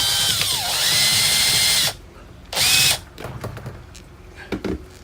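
Power drill driving a screw through a rubber fridge-door seal into an existing hole. It runs for about two seconds with its pitch dipping as the screw bites, then a short second burst, followed by a couple of light knocks near the end.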